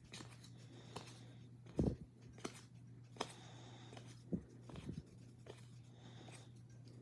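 Baseball trading cards being handled and flipped through: scattered short slaps, clicks and rustles, about eight in all, with no steady rhythm, over a steady low hum.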